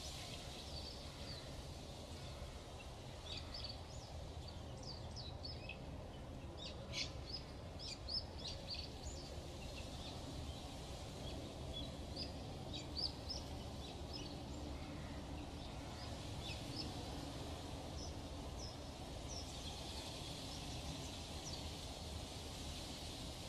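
Small birds chirping in scattered short calls, busiest in the first half, over a steady low background rumble.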